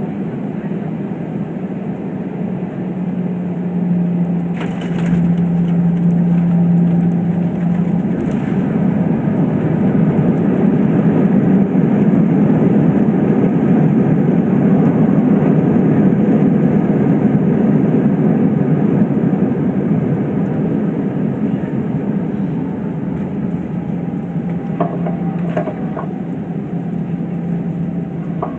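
Airbus A320 cabin noise on landing: a steady rumble, a jolt about four seconds in as the wheels touch down, then the engine roar building for several seconds during the rollout and easing off as the jet slows.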